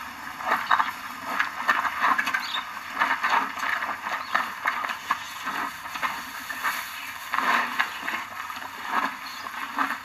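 Rhinoceros eating: a run of irregular wet, crunchy chewing sounds, several bites a second, as it munches on plant matter.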